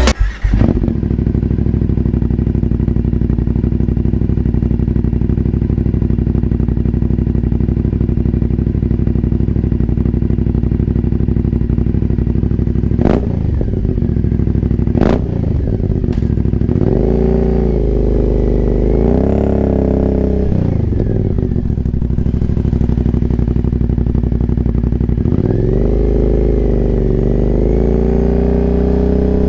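2019 Aprilia Dorsoduro 900's V-twin running through a full de-catted Arrow exhaust with no dB killers, idling steadily. About halfway there are two sharp clicks, then a few throttle blips, and near the end the revs climb.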